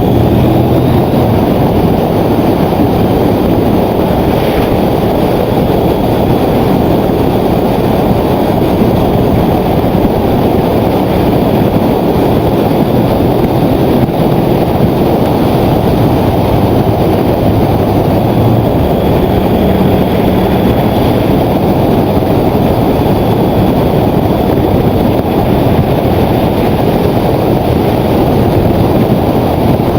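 Motorcycle riding at speed: heavy, steady wind noise buffeting the microphone, with the engine running underneath.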